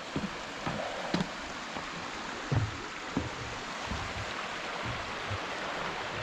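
Shallow creek flowing over rocks, a steady wash of water, with a walker's footsteps thudding irregularly over it, the loudest about two and a half seconds in.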